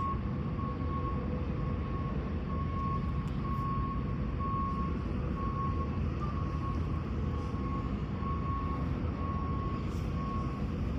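Steady low rumble of outdoor urban background noise, with a faint high beep repeating evenly through it and stopping near the end.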